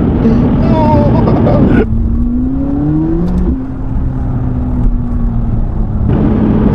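McLaren 570GT's twin-turbo V8 under acceleration: the engine note climbs steadily through a gear, then drops at an upshift about three and a half seconds in and settles, over heavy road noise.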